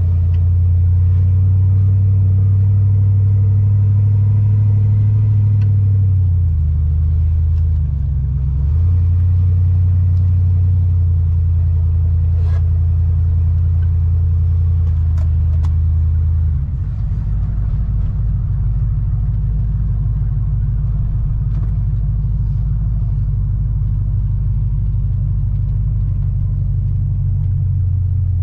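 A vehicle driving: a loud, steady low drone of engine and road noise. It dips for a couple of seconds about six to nine seconds in, and changes pitch and texture about halfway through as the speed or gear changes.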